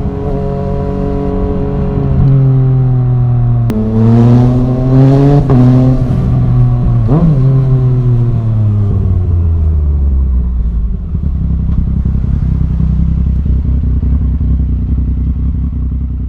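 Yamaha MT-09's 847 cc three-cylinder engine through an Arrow Thunder full-system exhaust, revving up a few seconds in with a quick blip after. It then drops back and settles to a low, steady idle for the last few seconds.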